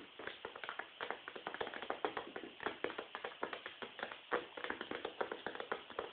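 Chickens pecking and scratching at a hard surface: rapid, irregular taps and scratches, several a second.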